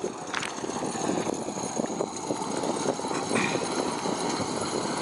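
Cable ferry under way: its big cable pulley running along the steel haul cable with a steady, rapid mechanical rattle.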